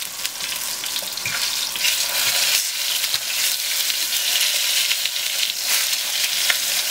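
Floured monkfish pieces sizzling and crackling in hot oil in a frying pan.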